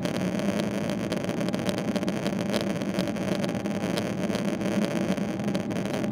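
Steady drone of a Boeing 777-300ER's GE90-115B jet engines heard from inside the passenger cabin, running evenly with no rise or fall.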